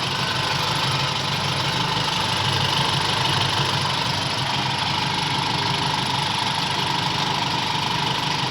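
Toyota Kijang petrol engine idling steadily, still warming up only about five minutes after a cold start, with its distributor timing and contact points freshly set; the idle is fairly smooth and even.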